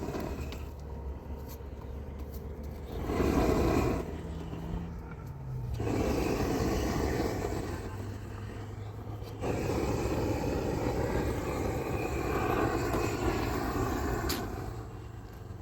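A motor vehicle running, its low engine hum dropping in pitch about five seconds in, with stretches of louder rushing noise.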